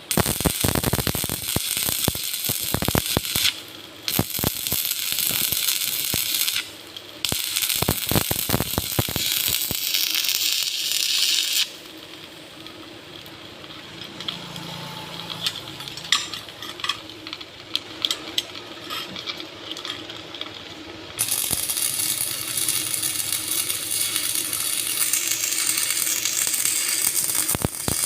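Metalworking noise: a loud, steady hiss that cuts off and restarts abruptly a few times, with a quieter stretch in the middle of scattered metal clinks and taps.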